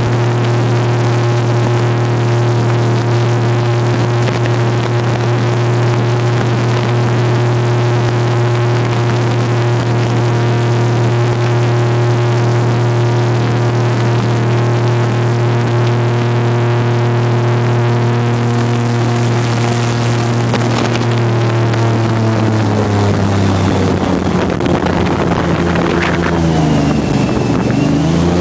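Airboat engine and propeller running at a steady high speed, with a strong even drone. About 23 seconds in, the engine speed drops and then swings up and down several times as the throttle is worked.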